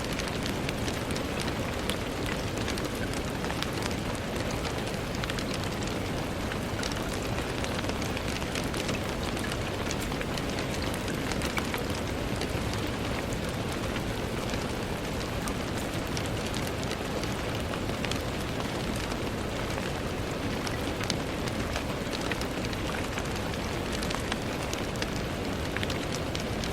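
Steady rain falling and pattering on a window, an even hiss dotted with many small drop ticks.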